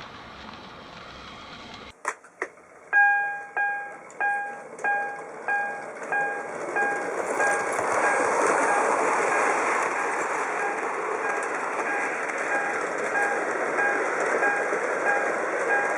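Two sharp clicks, then a bell-like ding that repeats about one and a half times a second, loudest at first. From about seven seconds in, the running noise of an H0 model railway train on the track rises beneath it.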